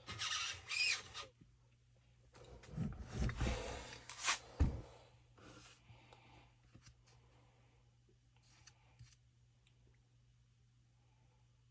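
Handling noises from working on small parts: two spells of rubbing and scraping, with a sharp click near the end of the second, then a few faint ticks.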